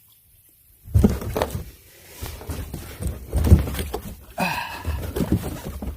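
Irregular low thumps and knocks, starting about a second in, with a short strained voice-like sound about four and a half seconds in.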